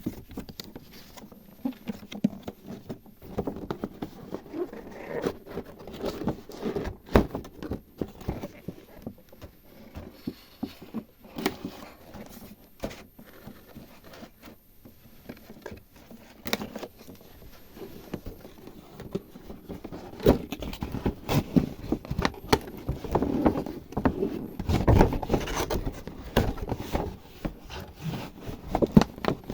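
Small toy kitchen pieces being handled: irregular taps, clicks, rubbing and scraping, growing busier and louder in the last third.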